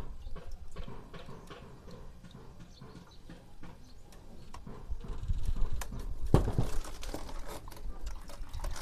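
Used engine oil pouring and dripping from the motorcycle, with small clicks and a sharp metal knock about six seconds in.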